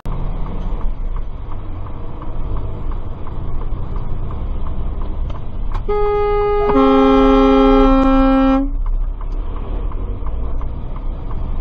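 Steady road and engine noise of a moving vehicle, with a vehicle horn blaring for about three seconds starting about six seconds in: a higher note first, then a lower note joining under it a moment later.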